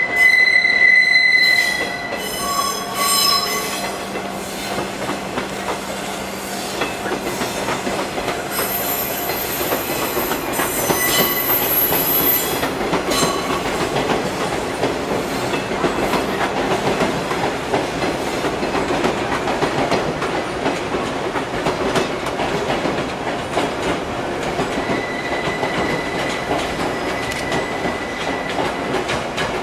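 Steel wheels of a JR 115 series electric train squealing shrilly as it crosses the yard tracks, the squeal coming in several spells, over a steady rolling rumble with clacks from the rail joints. Near the end the rumble comes from a 383 series train running behind it, with a further squeal.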